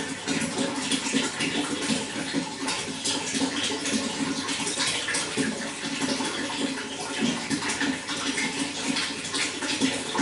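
Running water flowing steadily, a continuous rush with many small splashes.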